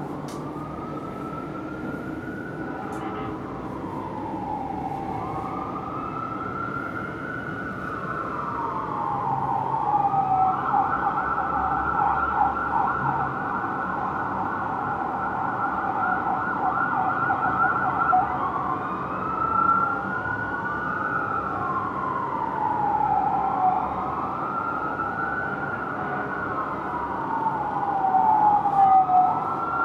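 Fire truck's Whelen electronic siren sounding a slow rising-and-falling wail, switching to a rapid yelp for several seconds in the middle, then back to the wail, growing louder as the apparatus approaches.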